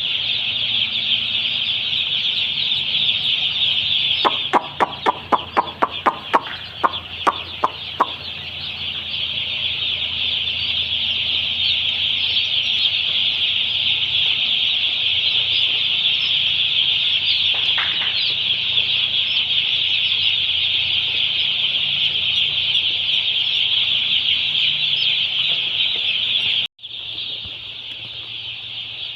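A large flock of chickens keeping up a steady, dense din of high-pitched chirping and clucking over a low steady hum. About ten sharp clicks come in quick succession between four and eight seconds in. Near the end the sound cuts out for an instant and returns quieter.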